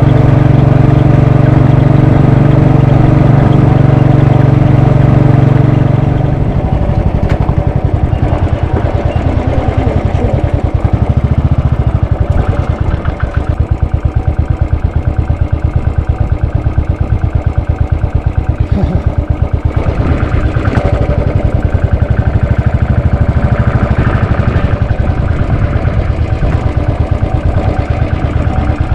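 Royal Enfield Bullet 500's single-cylinder engine running at a steady throttle. About six seconds in, the throttle closes and the engine drops to a slow, even thumping idle.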